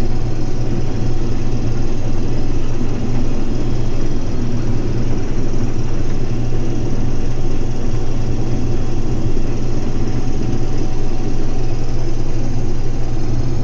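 Case IH 2388 combine running steadily while harvesting wheat, heard from inside the cab: an even, unbroken drone of engine and machinery.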